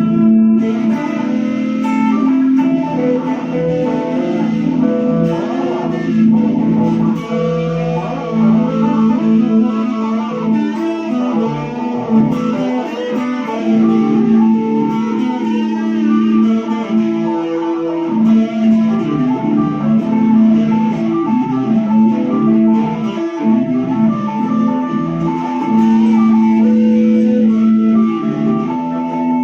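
Guitar playing an improvised blues: a lead line of plucked notes runs over steady held low notes.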